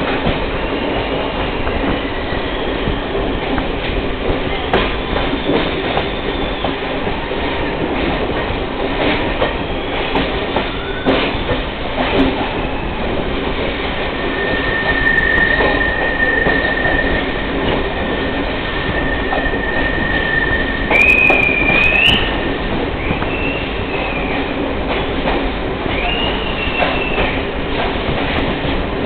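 A train running steadily on the rails with a continuous rumble. From about halfway in come high-pitched wheel squeals: one long held squeal, then several shorter ones that bend in pitch.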